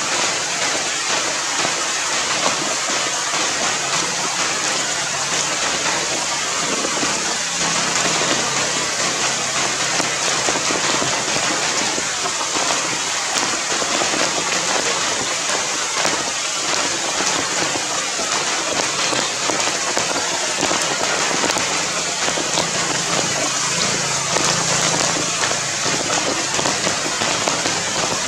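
Steady heavy rain falling on the ground and leaves.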